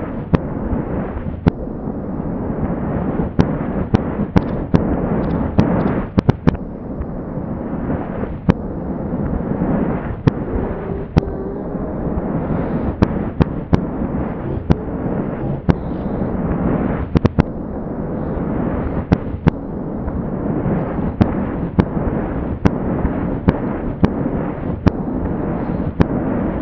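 A fireworks display slowed to a quarter of its speed and played backwards: a continuous low rumble with many sharp cracks at irregular intervals, some in quick clusters.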